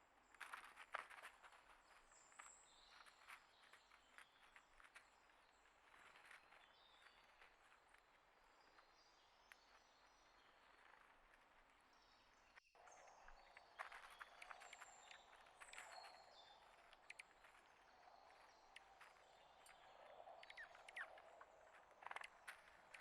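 Faint outdoor ambience of small birds chirping now and then, with many light ticks and scratches throughout. The sound drops out for an instant about halfway through.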